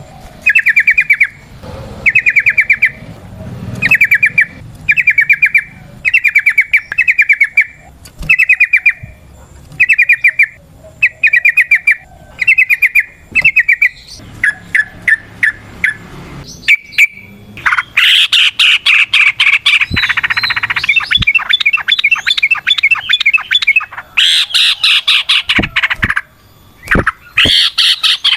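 Yellow-vented bulbul (trucukan) singing: short bubbling phrases repeated about once a second, then from about two-thirds of the way through a dense, rapid, louder chattering run, the long 'ropel' song.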